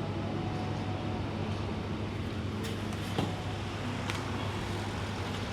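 Steady low hum of an idling car engine, with a few faint clicks in the middle.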